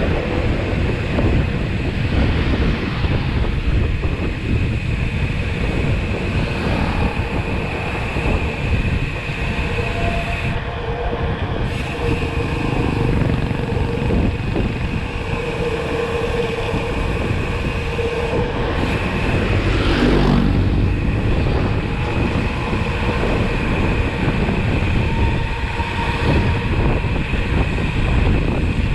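Steady rumble of road and wind noise while riding along, with a faint steady whine over it.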